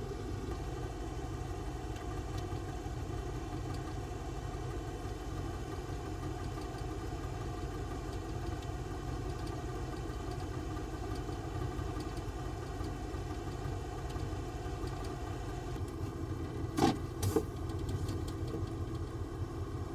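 A steady low rumble like an idling engine, with two sharp knocks about three seconds before the end.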